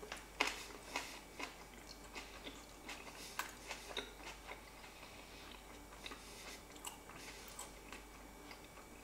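A person chewing a mouthful of ravioli salad with rocket and cherry tomatoes, mouth closed. It is faint: many small, wet clicks and crunches, thickest over the first four or five seconds, then thinning out.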